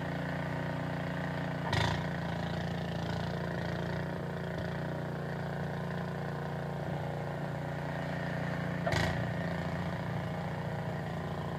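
Snowblower engine running steadily under load, with two short sharp knocks about seven seconds apart.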